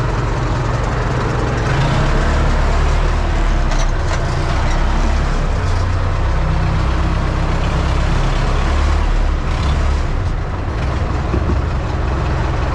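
Universal U650 tractor's diesel engine running steadily, a loud, continuous low rumble.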